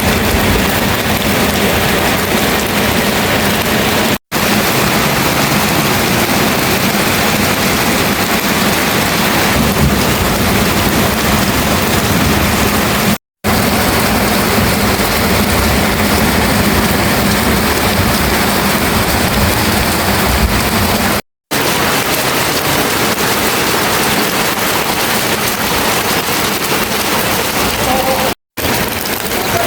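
Heavy rain pouring down: a loud, dense, steady hiss of rain, broken by four short, sudden dropouts to silence.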